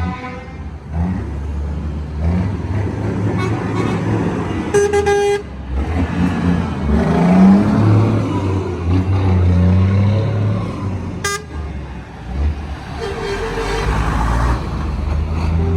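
Truck engines running and revving as they pass, with a horn blast about five seconds in, a short blast near eleven seconds and a fainter horn tone a couple of seconds later.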